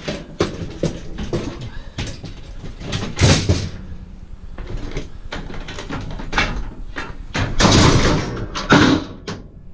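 Scrap metal being handled and moved: a string of knocks and clatter, with a longer scraping slide about three seconds in and another near the end.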